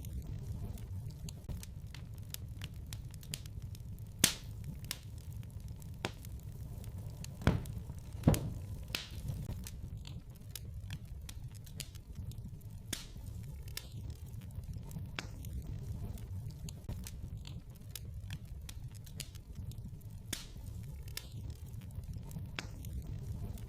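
Wood fire burning in a fireplace: a steady low rumble with scattered crackles and pops, a few of them sharper and louder between about four and nine seconds in.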